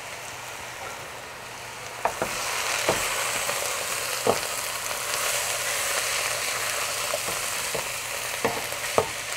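Ground meat, onion and cabbage frying in a pot and being stirred with a wooden spoon: a steady sizzle that grows louder about two seconds in, when the stirring starts, with a few light knocks of the spoon against the pot.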